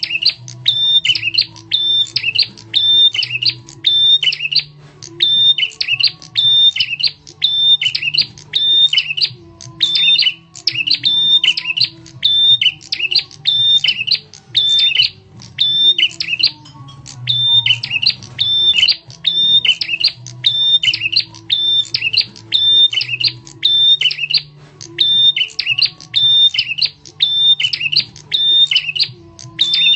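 Prenjak tamu (a prinia) giving its loud, sharp call over and over in fast even series, with a few brief breaks, as a lure recording. A faint low hum runs underneath.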